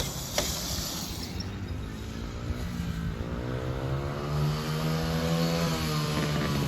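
Motorcycle engine running and revving: the pitch rises about three seconds in, holds, then drops back near the six-second mark. A sharp click sounds about half a second in.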